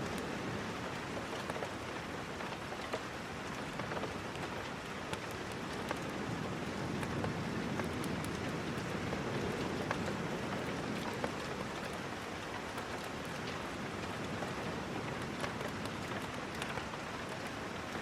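Steady rain falling, with scattered sharp little ticks through it.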